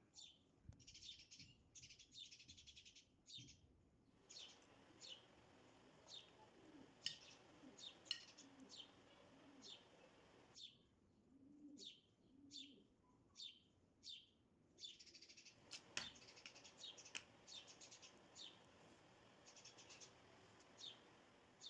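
Faint birds chirping: short, high chirps repeated every second or so, with runs of quicker twittering near the start and again in the last third.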